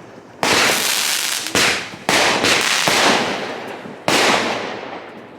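Fireworks going off: four sudden bangs in quick succession, each trailing off over a second or so.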